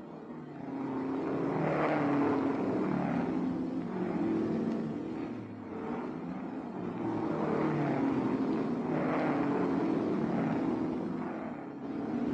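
Racing cars' engines running hard and passing one after another, the sound swelling and fading several times as they go by.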